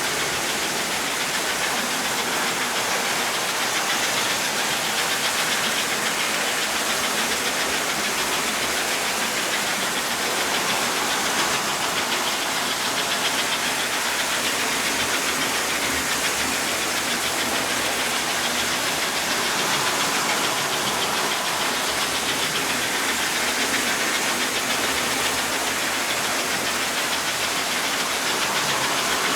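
American Flyer toy steam locomotives running around the track: the electric motors and wheels on the rails make a steady, noisy whir that does not change.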